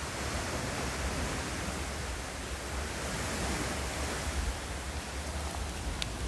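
Steady rushing noise with a low rumble underneath, and one faint click near the end.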